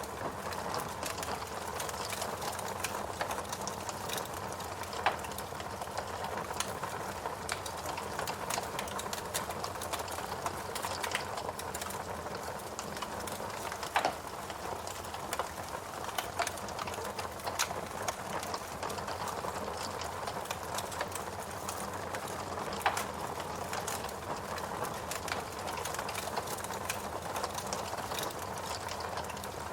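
Burning logs crackling in a fireplace: a steady hiss with frequent small snaps and a few louder pops spread through.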